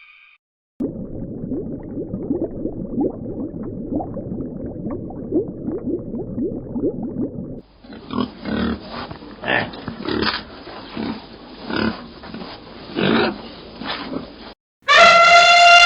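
Pigs grunting and oinking: a dense run of low grunts for several seconds, then, after a cut, separate short grunts about once a second. Near the end a loud, high-pitched animal call begins, falling in pitch.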